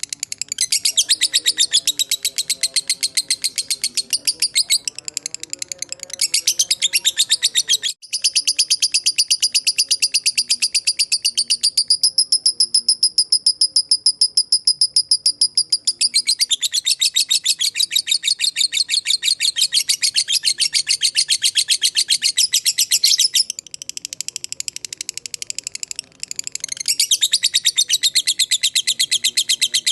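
Lovebird in long 'ngekek' chatter: a rapid, unbroken string of shrill, high chirps, pausing briefly twice.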